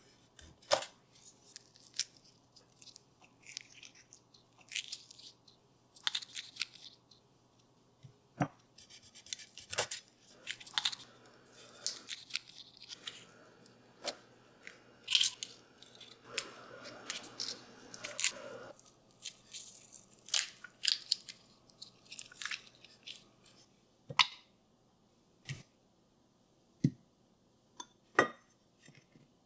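Scattered light taps, clicks and rustling, irregular and close at hand, with a longer stretch of rustling about two-thirds of the way through.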